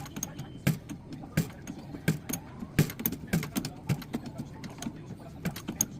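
A series of irregular sharp clicks and light knocks, as of small plumbing fittings and a tool being handled.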